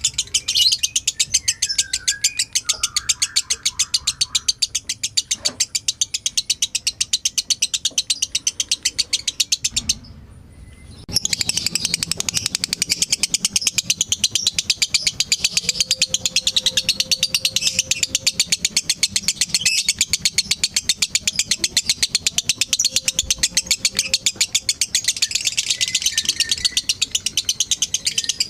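Lovebird giving its long, rapid chattering song ('ngekek panjang'): a fast, even string of shrill chirps that breaks off for about a second about ten seconds in, then carries on.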